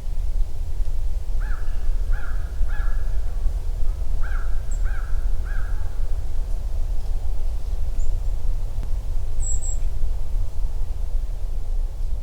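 A bird calling in two runs of three calls, with a few faint high calls of small birds, over a steady low rumble.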